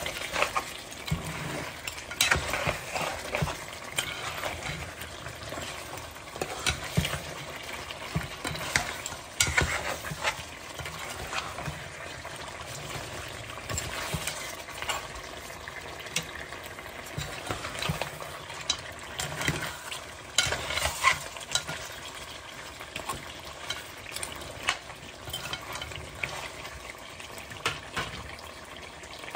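Bhuna masala frying in a pan with ground spices, a steady sizzle, while a spoon stirs it, scraping and clicking against the pan at irregular intervals.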